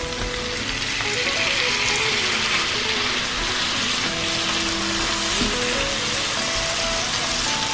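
Sliced tomatoes frying in hot oil with chopped onion and garlic in a nonstick pan: a steady sizzle that swells about a second in as the tomatoes land in the oil. Light background music plays underneath.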